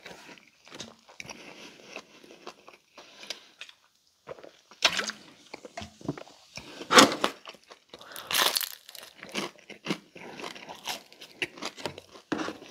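Close-miked chewing and crunching of crisp baked food, most likely a Pizza Hut Melt, with irregular bites and mouth sounds; several louder crunches come in the middle.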